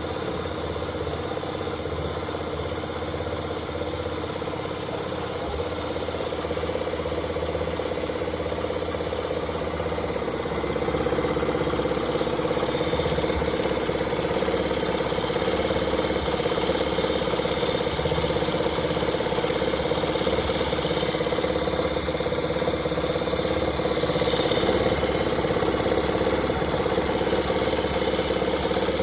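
Yamaha Factor motorcycle's single-cylinder engine running steadily at idle, a little louder from about ten seconds in. The owner is asking about an unusual noise from the engine.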